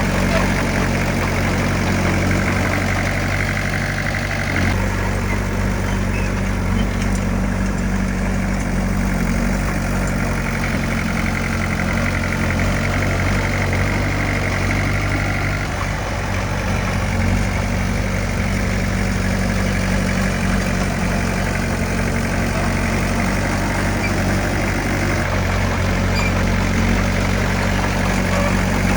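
Heavy diesel engine of a bulldozer running steadily, its note shifting a few times.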